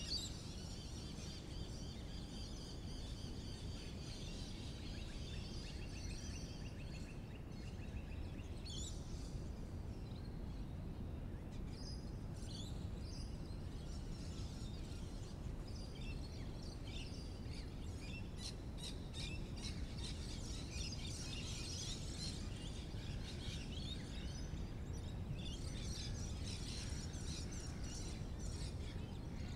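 Birds chirping and calling over a steady low outdoor rumble. A drawn-out trilling call runs through the first several seconds, and bursts of quick, rapid chirps come later on.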